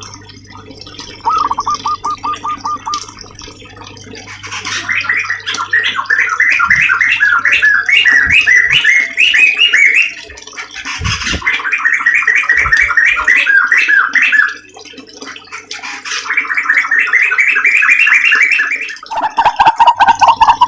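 Songbird singing in long phrases of rapid repeated chirping notes, three phrases of a few seconds each with short gaps, with a faster, lower chattering series near the start and again near the end. A steady low hum runs underneath.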